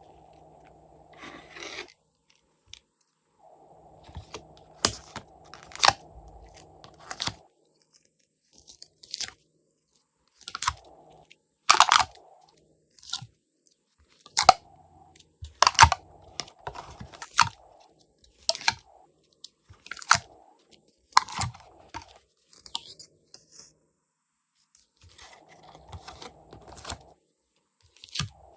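Glossy slime being squeezed and folded by hand, giving sharp crackling pops and clicks about once every second or so, with softer squishing between them.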